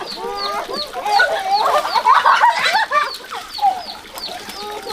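Several chickens clucking and calling over one another, with a high chirp repeating about three times a second.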